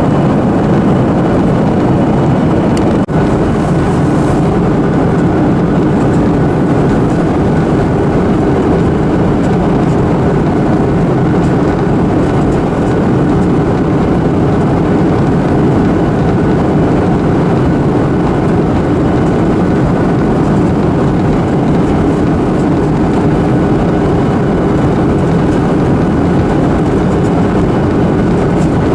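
Steady cabin noise inside a Boeing 737-800 in descent: jet engines and rushing airflow as a constant low hum, with one brief click about three seconds in.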